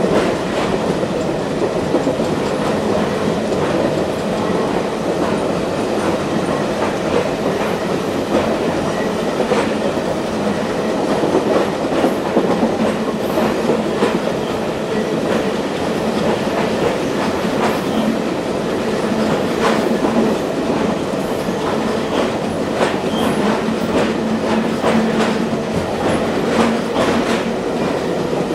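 Passenger car of a diesel-hauled excursion train running along the track at speed, heard from aboard: a steady rumble of wheels on rail with irregular clicks and clacks over the track.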